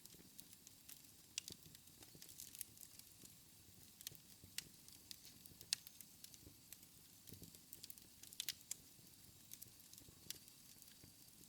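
Wood fire in a fireplace crackling quietly: irregular sharp pops, several bunched together near the middle and again about two thirds of the way in, over a soft low rush of flame.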